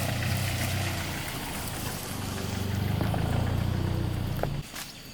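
An engine running with a steady low drone that swells slightly partway through, then cuts off abruptly near the end, followed by a single knock.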